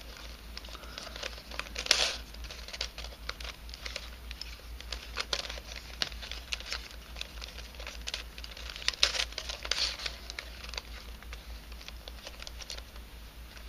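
A 3D-printed nylon helicopter cube twisting puzzle being turned by hand: a scatter of small clicks, scrapes and rattles as its pieces rub and knock while faces turn. The sharpest clicks come about two seconds in and again around nine to ten seconds, over a steady low hum.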